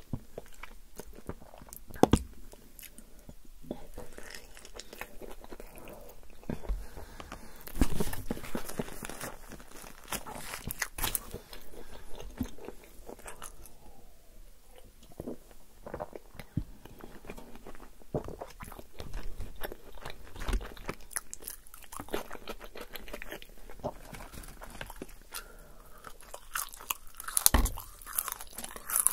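Close-miked chewing and crunching of yogurt tantuni, with irregular wet mouth clicks and louder bites now and then. Partway through, she takes a drink from a soda can.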